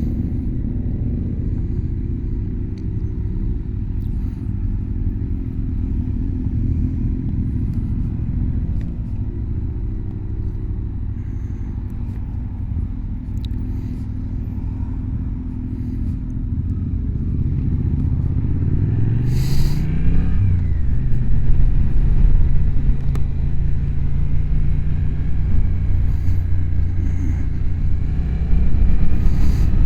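Motorcycle engine running steadily at low revs, then revving up about two-thirds of the way through as it accelerates, holding a higher, louder note afterwards.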